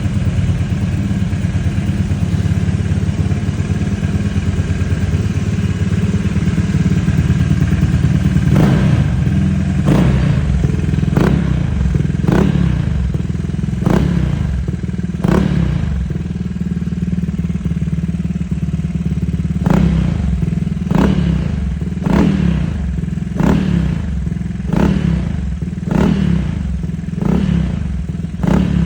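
Honda PCX scooter's single-cylinder engine idling through an aftermarket OverRacing exhaust, then revved in a string of short throttle blips, roughly one every second or so, with a short pause in the middle.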